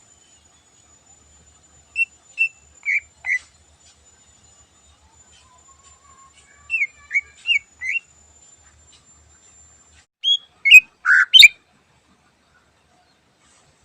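Greater green leafbird (cucak ijo) singing short, clear whistled notes in three bursts, about two seconds in, about seven seconds in, and a louder cluster near the end.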